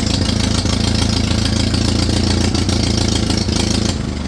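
Ferguson TEA20 tractor's four-cylinder petrol engine running loud and steady, then dropping away about four seconds in as it is shut down. It runs on a Zenith carburettor whose badly worn throttle shaft pulls a big vacuum leak that ruins the idle.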